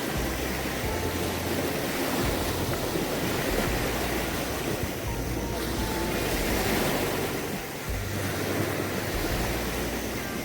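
Sea surf washing on the shore, with gusting wind buffeting the microphone in patchy low rumbles.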